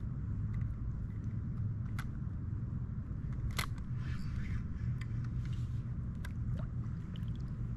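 Steady low rumble with scattered sharp clicks and knocks, the loudest about three and a half seconds in.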